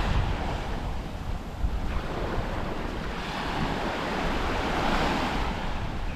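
Caribbean sea surf washing onto a sandy beach, the noise of the breaking waves swelling and fading every few seconds, with wind rumbling on the microphone.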